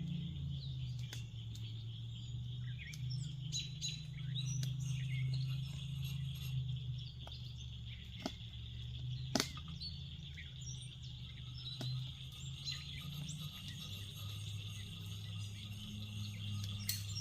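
Outdoor summer ambience: birds chirping over a steady high insect drone, with a low steady hum underneath and a few light clicks, one sharper about halfway through.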